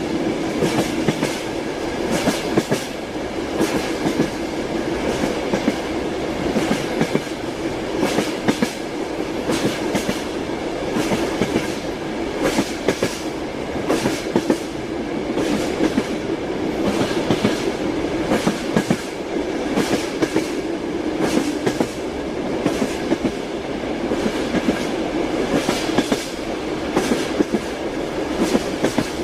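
A moving train's wheels clattering over the rail joints, a steady clickety-clack of sharp knocks several times a second over a continuous running rumble.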